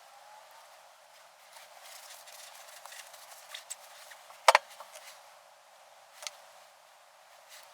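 Hand work on parts and tools: light rubbing and ticking, then a sharp double knock about four and a half seconds in and a smaller knock near six seconds.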